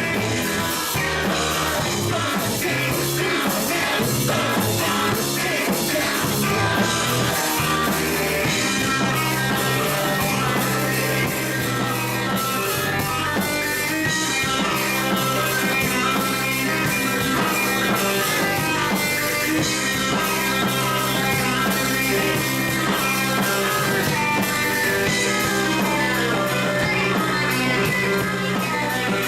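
Rock music played by a band, with guitar and singing, running steadily and loud without a break.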